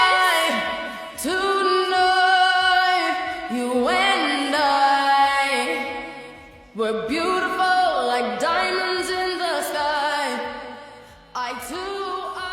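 Music: a female voice singing long, drawn-out phrases of gliding notes, with each new phrase coming in sharply after a short dip.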